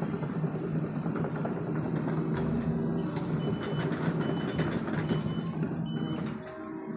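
Sumitomo SH75 excavator's diesel engine running steadily under work, with knocks from the machine in the middle and a high warning alarm beeping several times in short pulses.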